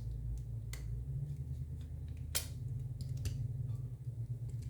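A few short, sharp clicks over a steady low hum, the loudest about two and a half seconds in.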